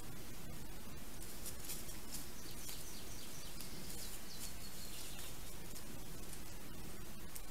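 Woodland birds chirping, a run of short high calls, over the steady hiss of a trail camera's microphone.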